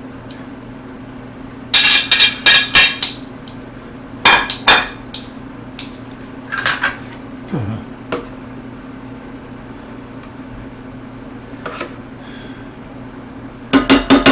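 A metal utensil clinks and knocks against a pan in short clusters while chicken pieces are set into the sauce and sauce is spooned over them. Near the end comes a quick run of taps. A steady low hum sits underneath.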